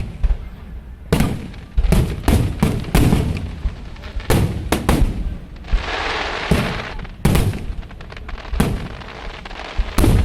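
Aerial fireworks shells bursting in a rapid series of sharp booms. Near the middle comes a second or so of dense crackling.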